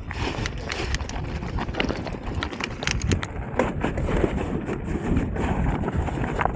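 Mountain bike moving over a rocky trail: a steady rumble of tyres on stones with many sharp clicks and rattles from the bike, and wind buffeting the action camera's microphone.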